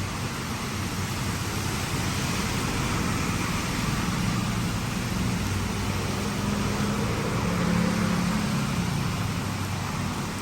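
Heavy rain falling steadily, with a motor vehicle's engine running low underneath as it passes, loudest about three-quarters of the way through.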